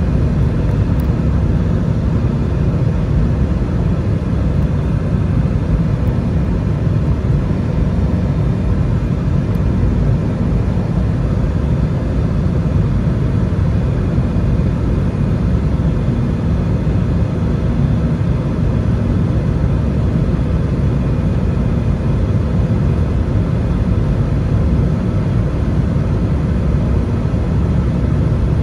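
Thai AirAsia Airbus A320's jet engines running in a steady, unbroken rumble with a faint constant hum above it, as the airliner climbs after takeoff.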